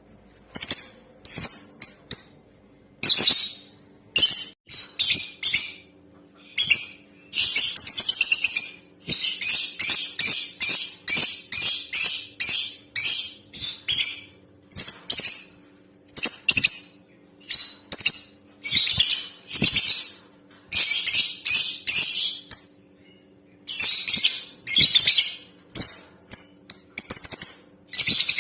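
Female lovebird calling: bouts of rapid, shrill, high-pitched chattering, each lasting half a second to two seconds with short pauses between.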